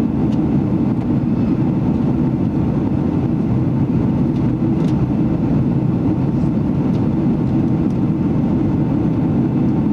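Steady cabin rumble of a Boeing 767-300ER airliner, the drone of its engines and airflow heard from a window seat by the left wing.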